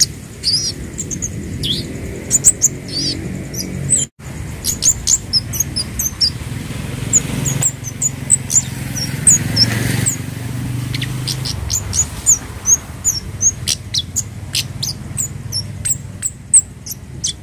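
Scarlet-headed flowerpeckers (kemade / cabe Jawa) calling: rapid, irregular series of short, sharp, very high-pitched chips and ticks, over a low steady background rumble. The sound drops out for an instant about four seconds in.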